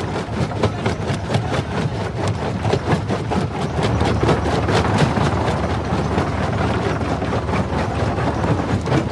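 Jaw rock crusher running and crushing stone: a steady low machine rumble under a rapid, irregular series of cracks and knocks, several a second, as rock breaks between the jaws.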